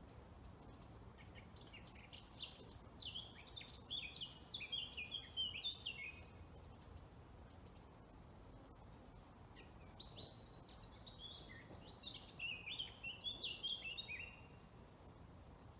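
A songbird singing two fast phrases of rapid, high, mostly falling notes, each lasting about four seconds: one starting about two seconds in, the other about ten seconds in, over a faint steady background hiss.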